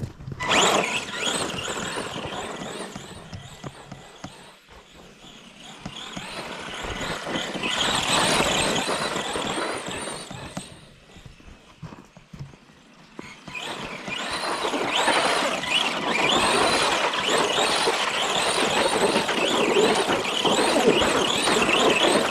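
ARRMA Granite 4X2 Boost RC monster truck driving, its brushed Mega 550 electric motor whining up and down in pitch as it speeds up and slows. There are three runs: a short one at the start, another peaking about eight seconds in, and a longer, steadier one from about fourteen seconds on.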